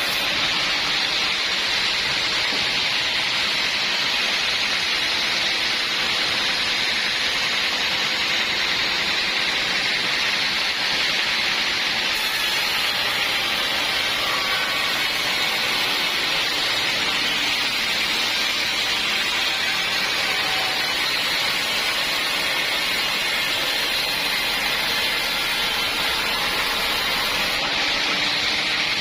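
Sawmill saw running through wood: a steady, even hiss that holds at one level throughout, with no distinct knocks or changes.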